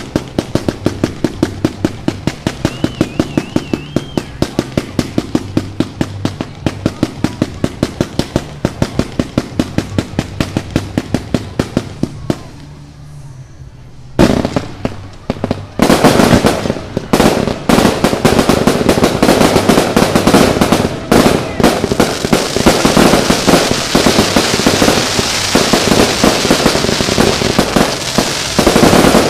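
Fireworks going off: a rapid, even run of bangs, about four a second, for the first twelve seconds. After a short lull there is a sudden loud blast, then a dense barrage of overlapping bangs and crackling that continues to the end.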